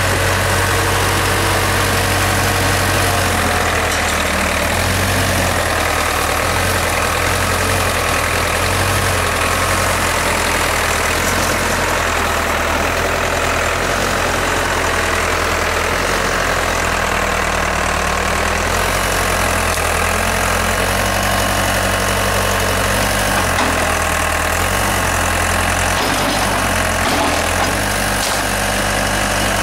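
Backhoe's diesel engine running steadily at low speed, its pitch shifting slightly now and then.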